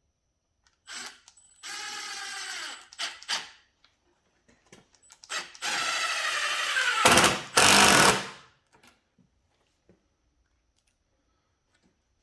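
Power drill run in several bursts, its motor whine dropping in pitch as it spins down after each trigger pull; the longest and loudest run comes about six to eight seconds in.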